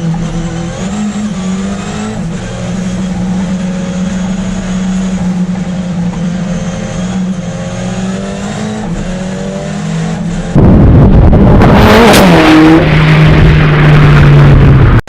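Ford Escort RS Cosworth's turbocharged four-cylinder engine running on track, heard from inside the car, its pitch stepping up and down with throttle and gear changes. About ten seconds in, a much louder, rough noise drowns the engine for about four seconds, then cuts off abruptly.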